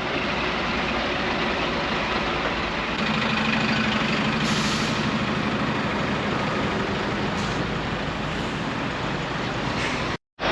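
Diesel lorry engines running together, with a short hiss of air brakes about four and a half seconds in and another fainter one a few seconds later. The sound cuts out briefly just before the end.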